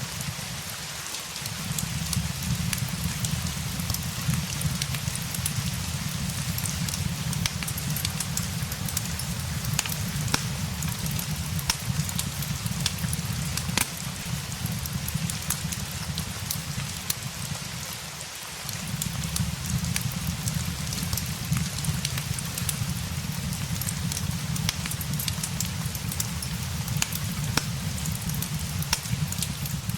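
Steady rain mixed with a crackling fireplace: a continuous rain hiss with scattered sharp crackles, over a low rumble that briefly dips twice.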